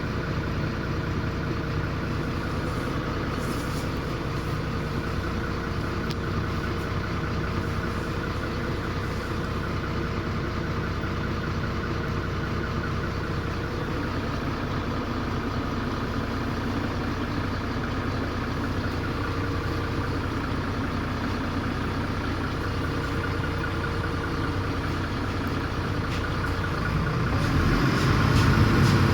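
MAZ 107.066 city bus diesel engine idling steadily, then getting louder about 27 seconds in as it revs up.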